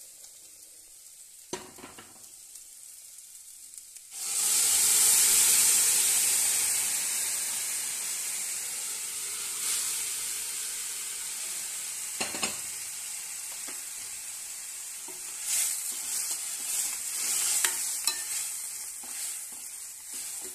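Food frying in a steel pot: quiet at first, then a sudden loud sizzle about four seconds in as ingredients go into the hot oil, fading slowly. A steel ladle stirs the pot, with clinks and scrapes against the metal later on.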